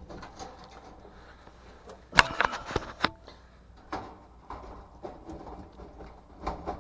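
Metal clanks and clicks of dryer parts being handled as the heating element assembly is fitted back into an electric dryer. One sharp clang about two seconds in rings briefly, and a few lighter knocks follow.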